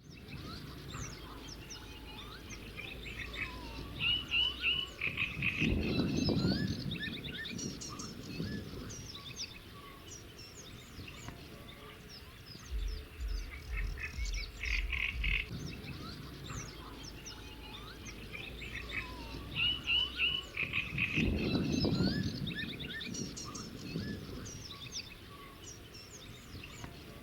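Natural wetland ambience: a chorus of frogs croaking, swelling twice, with many small birds chirping and trilling over it.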